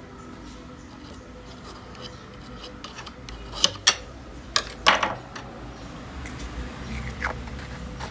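A handful of sharp clicks and knocks of hard objects being handled, four close together about halfway through and one more near the end, over a faint steady hum.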